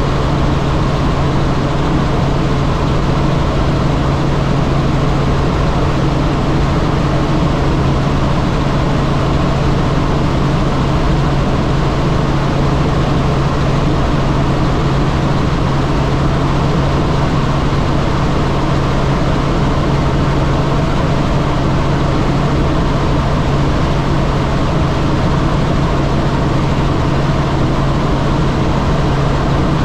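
Helicopter in flight: a steady, loud drone of engine and rotor noise with a constant low hum.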